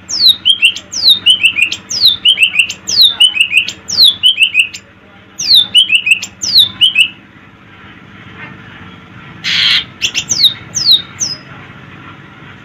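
A songbird repeating a whistled phrase over and over: a clear note sliding downward, then two or three short lower notes, about ten times in seven seconds. After a pause it gives a harsh rasping call, then a few more sliding notes.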